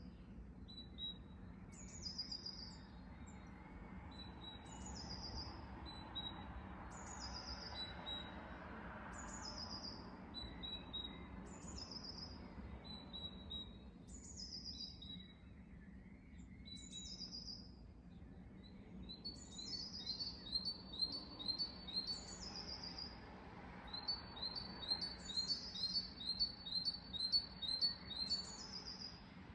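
Songbirds singing: one bird repeats a short, high, falling phrase about every second and a half, and about two-thirds of the way in a fast run of chirps joins it. Faint steady background noise runs underneath.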